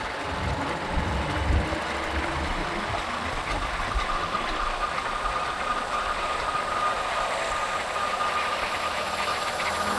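Motorcycle engine and road noise in city traffic, heard while riding. A thin steady whine joins about halfway through.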